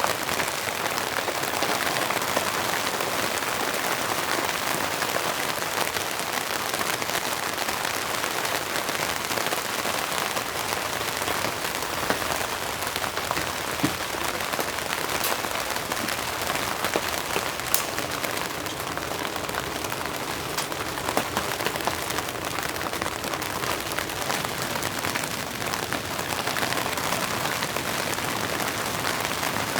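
Steady rain: an even hiss full of small drop ticks, with a few louder single drops in the middle.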